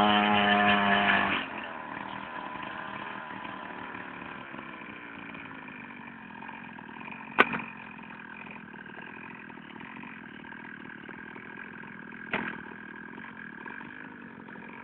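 Mini pit bike engine running at high revs with a steady pitch. After about a second and a half it drops to a much quieter steady running sound, broken by two sharp clicks, one about seven seconds in and one about twelve seconds in.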